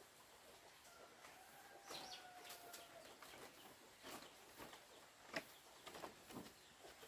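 Faint outdoor background: a distant bird call drawn out for about a second, with scattered light clicks and knocks.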